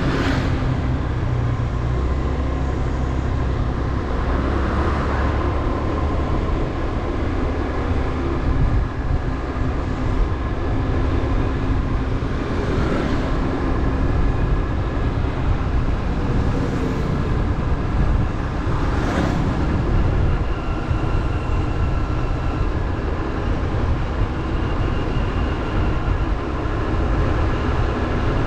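Motorbike engine running steadily while riding, with wind rumbling on the microphone and a few brief swells in the noise.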